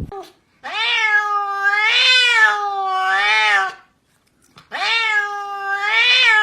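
Domestic cat meowing: two long drawn-out meows with a wavering pitch, about a second apart.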